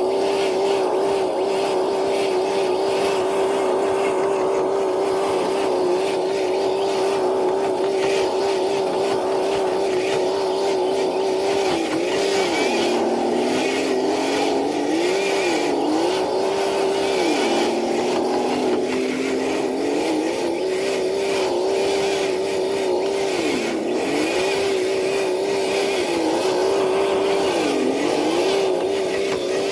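Traxxas TRX4 RC truck's electric motor and drivetrain whining steadily under the load of a dead sled. The pitch dips several times and sags lower for a couple of seconds around the middle as the load drags the motor down.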